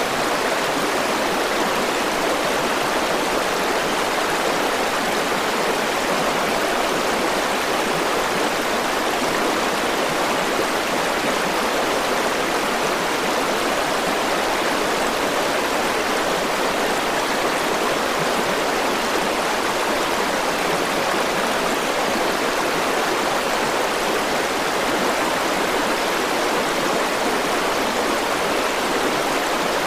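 River water rushing and flowing over rocks, a steady, even rush with no breaks or changes.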